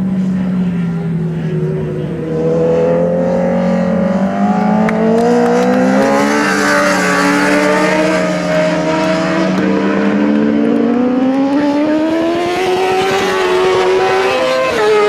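Racing superbike engine at full throttle, its pitch climbing steadily, dropping abruptly about ten seconds in as it shifts up a gear, then climbing again.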